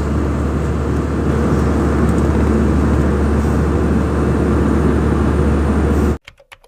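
Steady roar of an airliner cabin in flight: engine and airflow noise, even and unbroken. It cuts off abruptly about six seconds in, leaving a few faint clicks.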